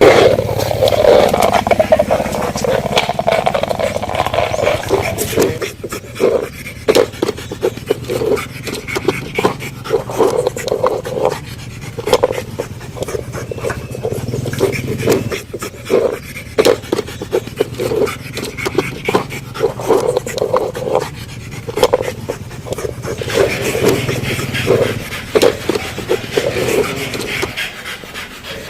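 Pug dog panting in short, quick, repeated breaths, the loud, rough breathing of a flat-faced breed.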